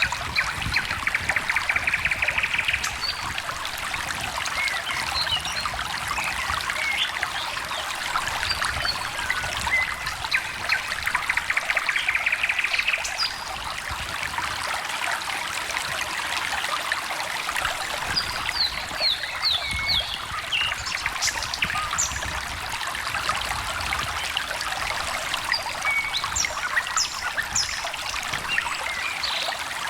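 A small stream trickling and babbling steadily, with birds singing over it: a buzzy trill near the start and again about halfway, then shorter runs of quick chirps later on.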